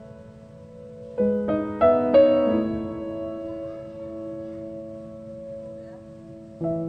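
Background piano music: a few notes struck in quick succession about a second in, ringing out and fading, then a new phrase near the end.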